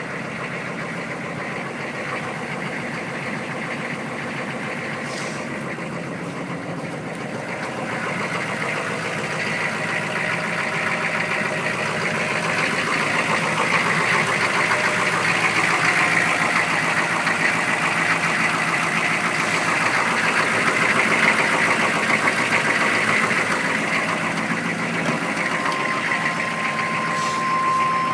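Chevrolet 6.5 L turbo-diesel V8 idling cold at −15 °C, a fast, even diesel clatter that grows louder through the middle and eases a little near the end. A steady high tone comes in near the end.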